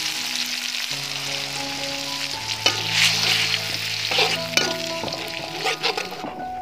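Sliced red chilies frying in hot oil in a metal wok, sizzling steadily, with a metal spatula scraping and clinking against the wok as they are stirred and an egg is mixed in. The sizzle falls away near the end.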